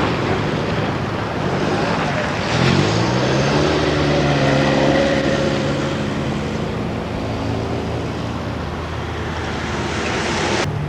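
A motor vehicle's engine passing over a steady hiss of street noise; the engine note rises, holds steady for a few seconds, then fades.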